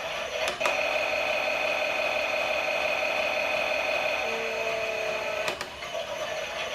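Battery-powered Klein toy Miele washing machine's small motor whirring steadily. About half a second in a click brings in a higher steady whine, which stops with another click near the end.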